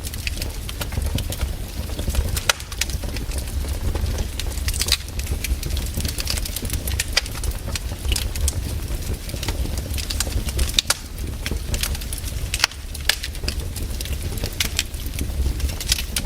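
Fireplace fire crackling: frequent, irregular sharp snaps and pops over a steady low rumble.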